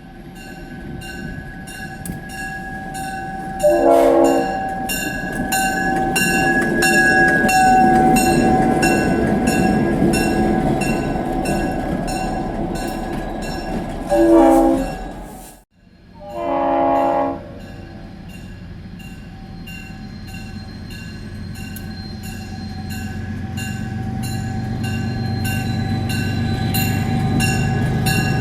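A train rolling along with a steady run of wheel clicks over rail joints and a thin wheel squeal. Its chime horn is sounded in three short blasts: about four seconds in, around the middle, and again just after a brief break.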